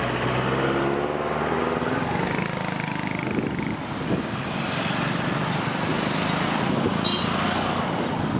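Motor vehicle engine passing close, its pitch rising over the first couple of seconds, then a steady rush of traffic noise.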